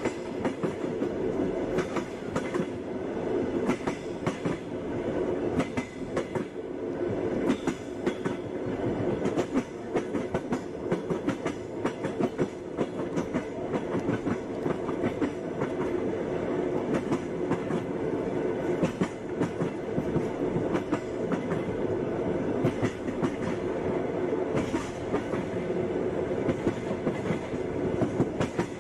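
Train wheels clattering on the rails as the train rolls along steadily: a continuous rumble with frequent uneven knocks and clacks.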